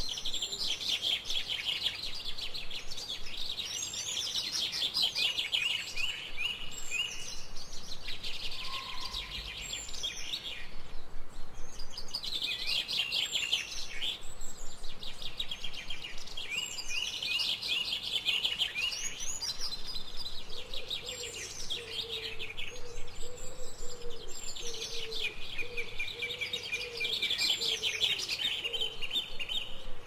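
Songbirds singing, one repeating a rapid trilled phrase of about two to three seconds every few seconds. In the second half, a faint series of much lower repeated notes runs beneath the song.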